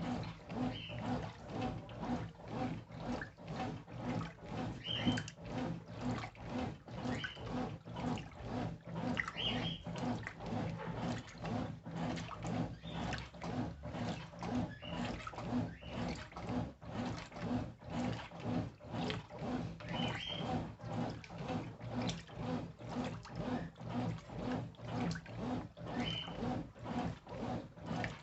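Brastemp Intelligent 7 kg top-load washing machine agitating the load in water during the wash. The motor hums steadily, the water sloshes back and forth about twice a second, and faint squeaks come every few seconds.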